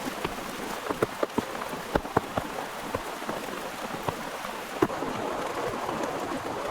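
Heavy rain falling steadily, with many large drops striking a nearby surface as sharp, irregular ticks over a constant wash of rain.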